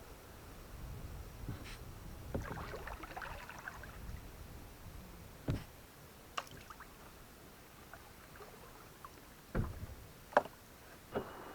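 Kayak being paddled: paddle strokes splashing and dripping in the water, with several sharp knocks in the second half, the loudest about ten seconds in.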